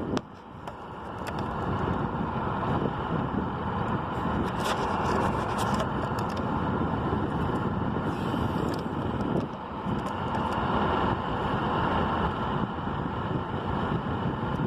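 Steady rushing, rumbling noise that builds over the first couple of seconds and then holds, with a few faint clicks.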